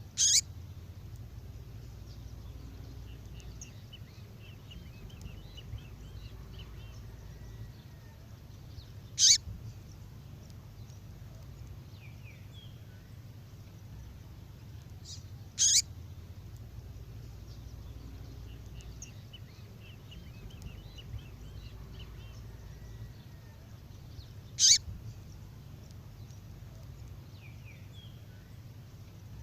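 A female songbird's call: four short, sharp, high call notes spaced several seconds apart, with faint high twittering between them over a low steady hum. It is the kind of female call used to draw in and excite male birds.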